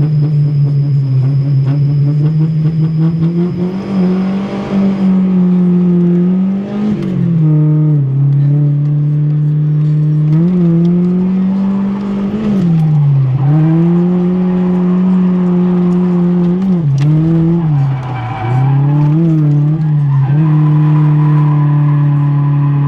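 Drift car engine being driven hard on track, its revs held high and steady, with the pitch dropping and climbing back several times.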